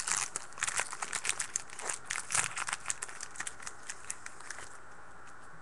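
Foil wrapper of a trading-card pack crinkling and tearing as it is opened, a rapid run of crackles that stops near the end.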